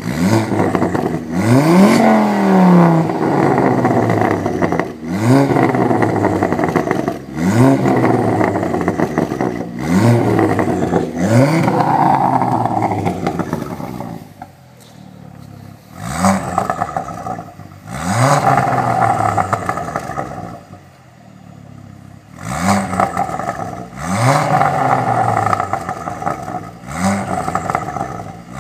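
Ford Focus ST 225's turbocharged five-cylinder, through a 3-inch unresonated Piper exhaust with a decat, revved in quick blips about every two to three seconds, dropping back to idle between them. Pops and crackles on the overrun as the revs fall.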